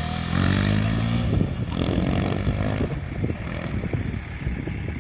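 KTM motorcycle engine running, with a clear, steady engine note for about two and a half seconds that then gives way to a rougher, uneven sound.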